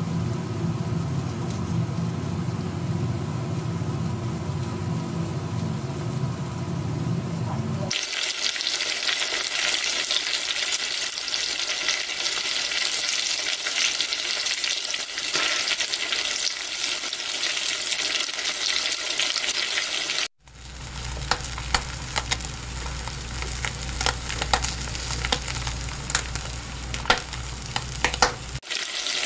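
Food frying in hot oil, heard as a run of separate frying shots. First comes a duller, deeper bubbling. About 8 seconds in it switches to a bright, steady sizzle, and after a brief cut about 20 seconds in it becomes a sizzle with sharp crackles and pops over a low hum.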